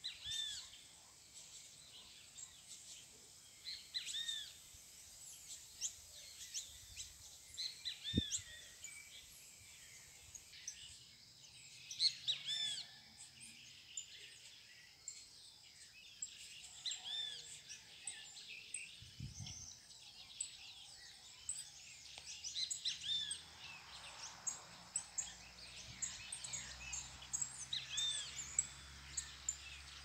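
Small birds chirping in short, separate calls scattered throughout, over a faint steady high background.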